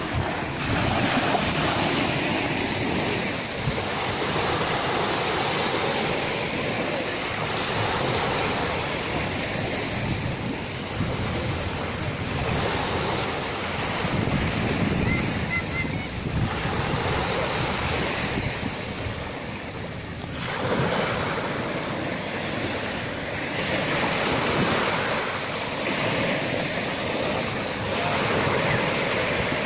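Sea waves breaking and washing onto a shore: a continuous rush of surf that swells and eases every few seconds.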